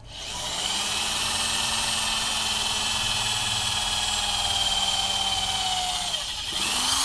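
Black+Decker TB555 hammer drill's motor running at a steady speed with a whine. The motor slows away about six seconds in, then quickly spins up and winds down again near the end.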